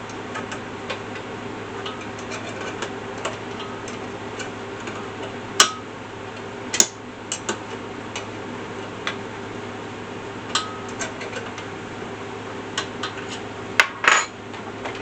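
Irregular metal clicks and clinks of tools and steel mill parts being handled and adjusted during assembly of an Alaskan chainsaw mill, with a few sharper knocks, over a steady low hum.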